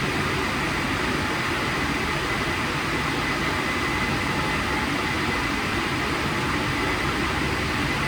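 WashTec SoftCare² Takt gantry car wash running: a steady, even rush with a faint high whine held throughout.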